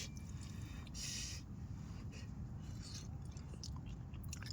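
Someone chewing a mouthful of pasta and Maggi noodles close to the microphone, with small clicks and a brief hiss about a second in.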